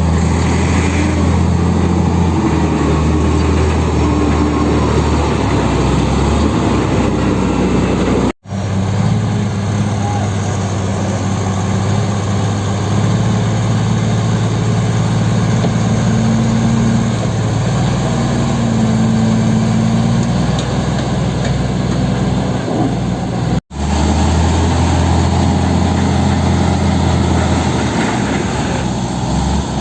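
Heavy diesel engines running steadily, the engine note rising for a while in the middle; the sound cuts out abruptly twice.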